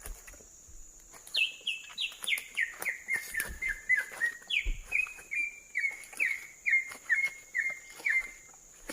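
A bird calling: a series of about sixteen quick, down-slurred whistled notes, about two a second, in two runs that each step down in pitch, the second starting about halfway through.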